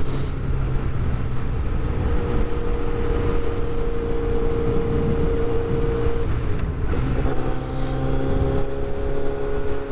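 Motorcycle engine running steadily at speed, heard from the rider's helmet mic with wind rushing over it. The engine note changes briefly about seven seconds in, then settles on a new steady pitch.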